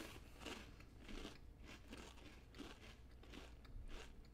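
Faint crunching of Cheez-It crackers being chewed close to a microphone, about two crunches a second.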